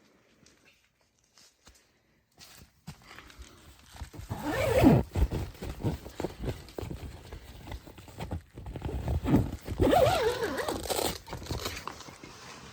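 A zipper being pulled open in two long, scratchy runs, the second about five seconds after the first.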